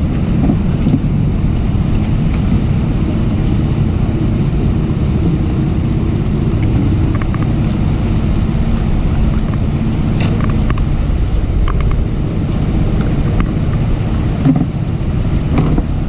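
Steady low rumble of wind buffeting the microphone while heavy rain falls, with a few faint ticks around ten seconds in and near the end.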